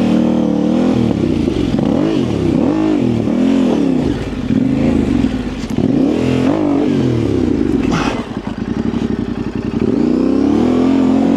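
Yamaha Ténéré 700's 689 cc parallel-twin engine revving up and down again and again while the bike is worked through a tight turnaround. The revs sag lower and choppier about eight seconds in, then pick up again.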